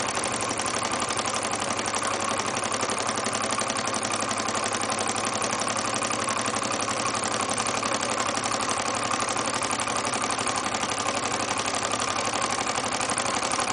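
Grizzly H8102 hot-air Stirling engine running steadily, with a fast, even mechanical clatter. The torch used to heat it is running throughout with a steady hiss.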